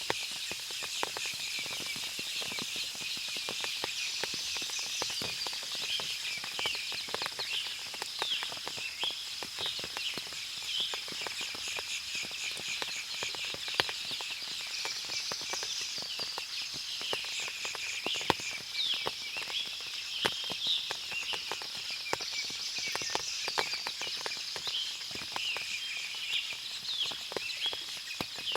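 Forest ambience after rain: a dense chorus of birds chirping, over a steady high-pitched tone, with scattered sharp ticks throughout.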